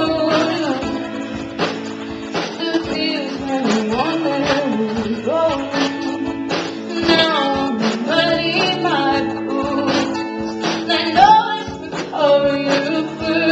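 Live pop song: a woman singing over strummed acoustic guitar.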